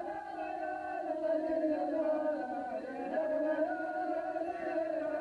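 Chanted Arabic poetry: a voice holding a long, slowly wavering sung note between verses of the poem.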